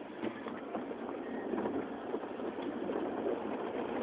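Automatic conveyor car wash working over the car, heard from inside the cabin: a steady noisy wash of spraying water and machinery with faint knocks.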